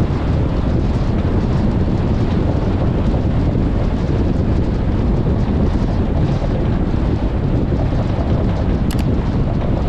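Wind buffeting the microphone over the steady low rumble of an off-road vehicle moving at speed, with a faint short tick near the end.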